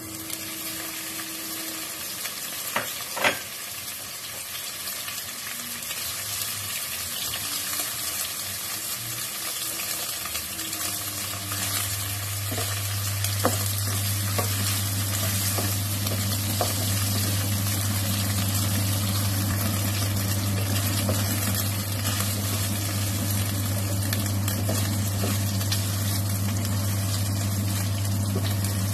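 Diced luncheon meat sizzling in hot oil in a nonstick wok as it is stir-fried with a spatula, with a few sharp knocks against the pan. The sizzling builds over the first several seconds, and a steady low hum comes in about eleven seconds in.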